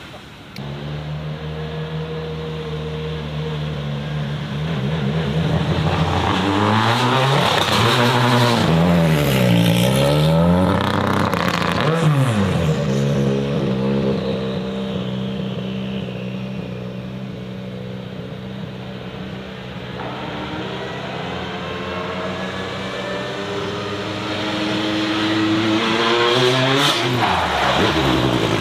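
Racing car engine running with a steady note, revved up and down several times about a third of the way in and again near the end.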